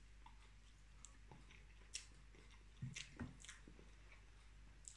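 Faint chewing while eating French toast, with a few light clicks scattered through.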